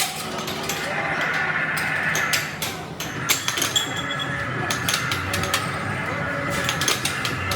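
Busy public-place background: blurred chatter of many voices, with frequent short clicks and clinks.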